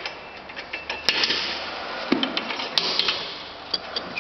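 Irregular sharp clicks and knocks of handled metal parts, with a short hiss about a second in.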